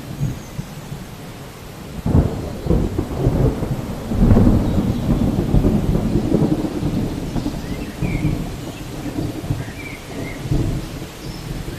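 Thunder over steady rain: a sudden crack about two seconds in opens into a long rolling rumble, loudest a couple of seconds later, then slowly easing off with a smaller swell near the end.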